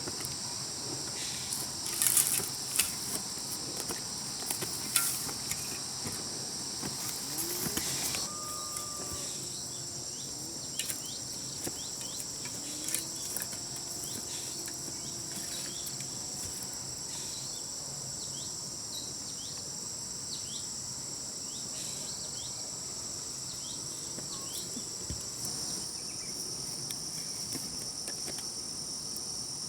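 Steady, high-pitched chorus of insects droning without a break. In roughly the first eight seconds, a series of sharp knocks sounds over it.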